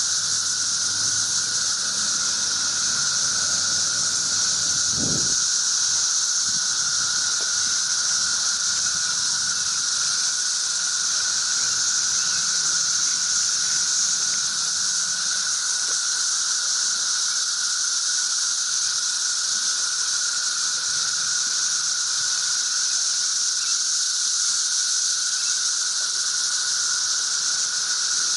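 Dense chorus of cicadas, an unbroken high steady drone. A brief low thump about five seconds in.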